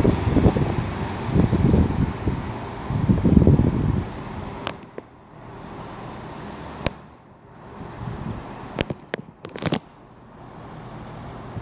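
Wind buffeting the microphone in loud gusty rumbles for the first four seconds, then easing off. A quieter background follows, with several sharp clicks in its second half.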